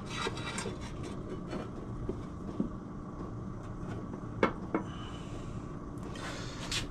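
Light knocks and clicks of a metal engine outer case being offered up and fitted onto motorcycle crankcases, with a short scrape near the end. A steady low hum runs underneath.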